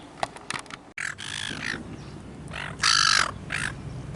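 A large bird calling with harsh, cawing calls, three in all, the second the loudest.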